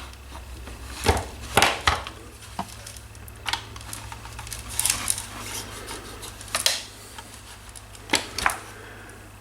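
Scattered clicks and light knocks of metal landing gear tubes being slid through the plastic landing gear mounts of a model helicopter frame, over a low steady hum.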